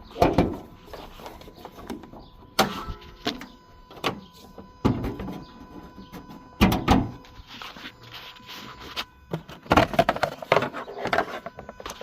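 Handling noises: a string of plastic knocks, clicks and scrapes as the fuse box cover and fuses of a 2013 Mazda CX-5 are worked on, the loudest knocks just after the start, about seven seconds in and around ten seconds in.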